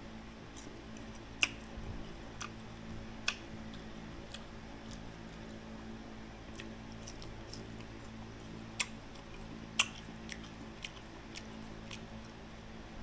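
Close-up chewing and biting of crisp green mango slices, with irregular sharp crunching clicks, a few of them much louder than the rest.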